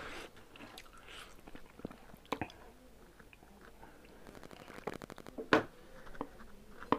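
Close-miked eating sounds: quiet chewing and mouth smacks as rice is eaten by hand from a metal plate. A few sharp clicks stand out, with a quick run of ticks about two-thirds of the way through.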